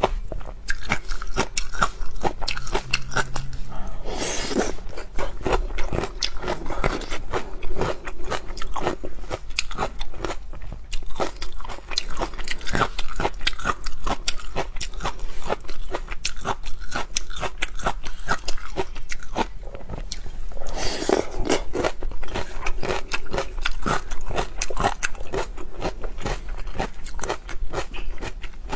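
Close-miked crisp crunching and chewing of vinegar-pickled green garlic cloves (Laba garlic) with chopped chilli. The crunches come thick and fast throughout, with two brief louder, noisier moments, about four seconds in and again about two-thirds of the way through.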